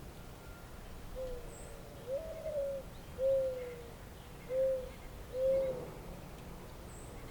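A pigeon cooing: a phrase of five low coos, the second longer and a little higher than the rest.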